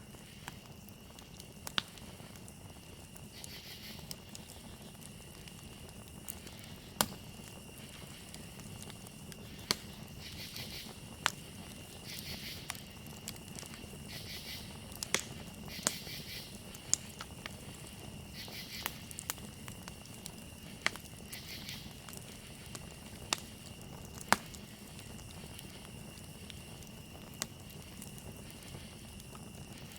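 Campfire crackling with irregular sharp pops, over the steady high trill of crickets and brief bursts of louder insect chirping every few seconds.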